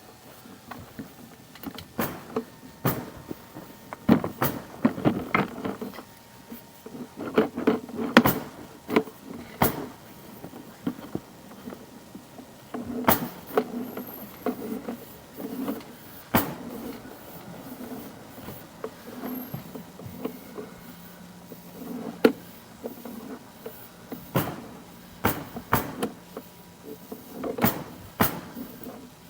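Irregular knocks, clatters and rattles of a sewer inspection camera's push cable being pulled back through the pipe and out at the clean-out, with a faint steady hum in the second half.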